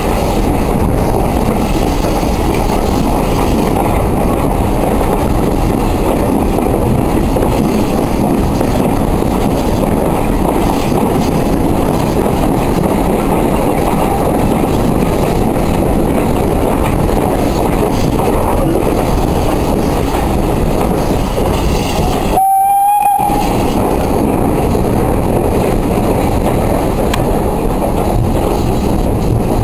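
Steady running noise of a steam-hauled passenger train heard from inside a carriage, its wheels rumbling along the track. The sound drops out for about half a second near the end, then a brief tone follows.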